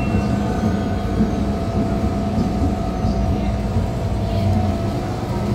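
Hong Kong MTR Disneyland Resort Line train, set P505/P506, running with a steady low rumble and a constant hum.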